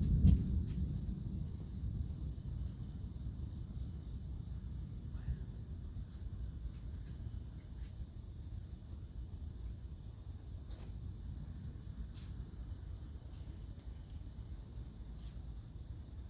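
A steady chorus of crickets chirping, with the end of a thunder rumble dying away in the first couple of seconds.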